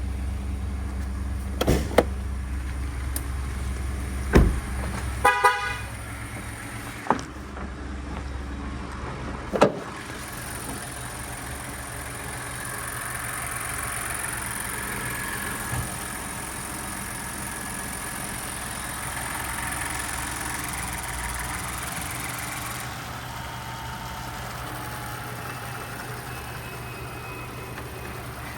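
Pickup truck with sharp thumps and clicks in the first ten seconds, most likely its doors and latches, and a short horn toot about five seconds in, over the steady low sound of the vehicle running.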